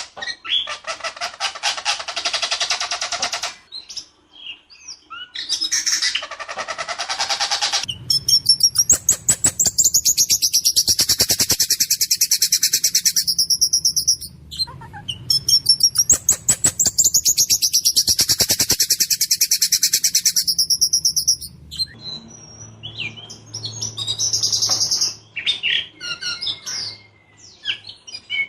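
White-rumped shama singing in full voice: long, fast rattling runs of harsh repeated notes, each lasting several seconds with short breaks between, then a stretch of more varied, broken phrases near the end.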